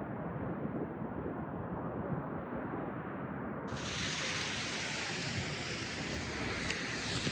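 Steady outdoor city ambience of a snowy street: a continuous rush of distant traffic and wind, with no voices or music. About halfway through, the rush suddenly takes on a brighter hiss.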